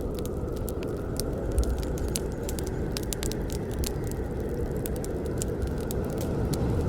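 Campfire burning: a steady low rush of flames with frequent, irregular sharp crackles and pops.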